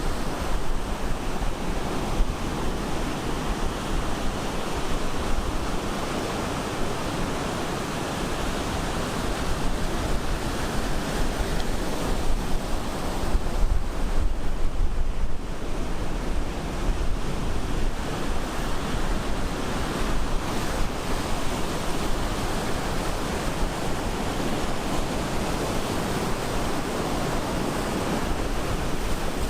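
Ocean surf breaking and washing up the beach in a continuous wash of noise, growing louder about halfway through as a bigger wave breaks.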